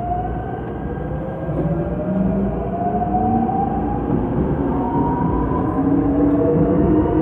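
Seoul Subway Line 5 train accelerating: the traction motors whine in several tones that rise steadily in pitch, over a steady rumble of wheels on track, growing louder toward the end.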